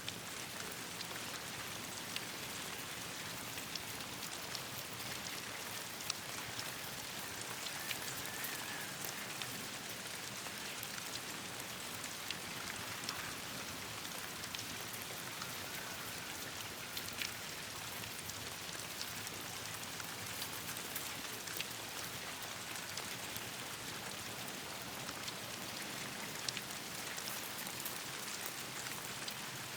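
Steady rain falling on leaves and branches: an even hiss of rainfall with many sharp drop ticks scattered throughout.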